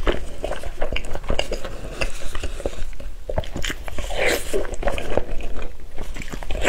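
Close-miked eating sounds: biting into and chewing a piece of cooked meat, with many quick wet clicks and smacks and a louder, longer mouth sound about four seconds in.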